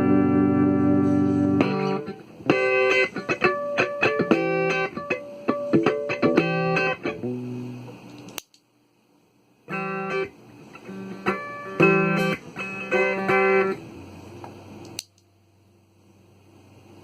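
Electric guitar played through a Kokko compressor pedal: a held chord rings for the first couple of seconds, then picked single-note phrases follow. The playing stops twice, each time with a sharp click and a pause of a second or two before it resumes.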